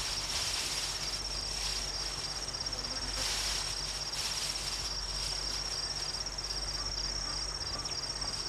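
Crickets trilling: a steady, high-pitched, rapidly pulsing trill over a soft natural hiss, with a brief rush of noise about three seconds in.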